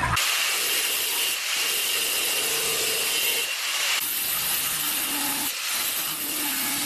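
A power tool working steadily with a hissing, rasping noise, dipping briefly about every two seconds.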